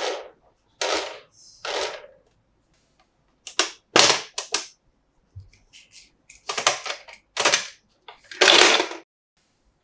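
Hard plastic toy playset parts being handled: a run of sharp clicks, snaps and short scrapes with pauses between them. The loudest come about four seconds in and again near the end.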